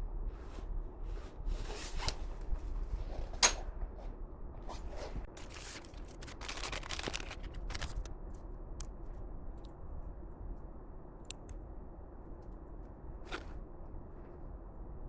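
Small handling noises: scattered clicks and scrapes, one sharp click about three and a half seconds in and a rustle around six to seven seconds, over a steady low hum.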